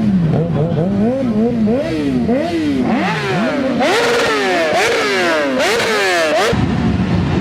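Several sport motorcycle engines being revved over and over, their pitch repeatedly rising and falling in quick overlapping blips. The sound changes abruptly near the end.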